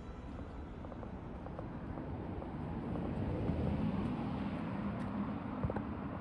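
Road traffic: a vehicle passing, its tyre and engine noise swelling to a peak a little past the middle and then easing off.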